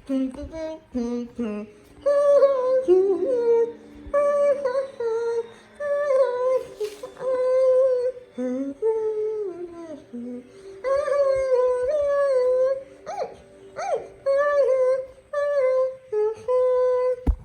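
A voice humming a wordless tune in short, gliding phrases with brief breaks between them.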